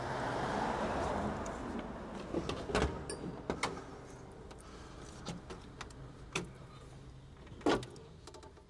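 A couple of seconds of hiss-like noise, then scattered clicks and knocks of hand work on the Mitsubishi Pajero's front grille as it is unfastened for removal.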